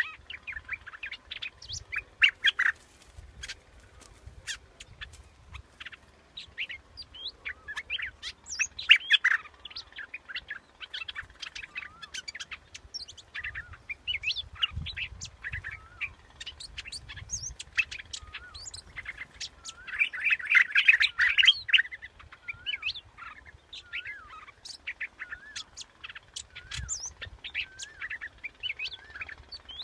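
A yellow bulbul (the Thai 'dok taeng' bulbul) singing short, bubbly warbled phrases over and over, with denser, louder bouts about eight and twenty seconds in. This is the song used as a decoy call to lure the bird.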